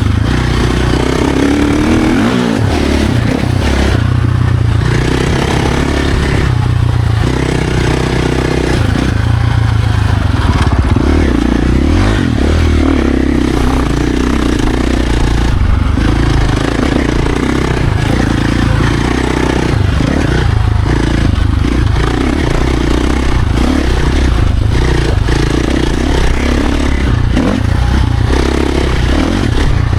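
Dirt bike engine running hard on a trail ride, the throttle opening and closing so the engine note rises and drops every second or two, with clattering and scraping from the bike over rough ground.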